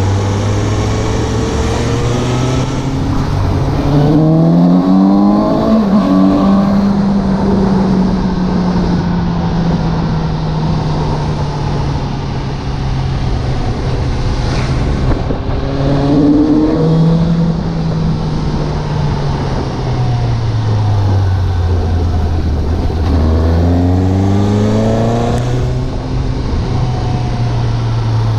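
Suzuki GSX750 motorcycle's inline-four engine under way: its pitch climbs sharply as it accelerates about four seconds in, then slowly falls off. It pulls up again briefly near the middle, drops to a low rumble, then picks up again near the end, over steady wind rush.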